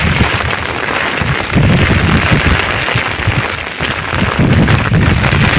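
Rain falling steadily with a dense hiss, while gusts of wind buffet the microphone in uneven low rumbles.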